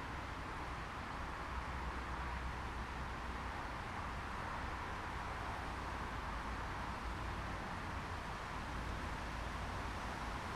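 Steady background noise: an even hiss with a low rumble beneath it, unchanging throughout.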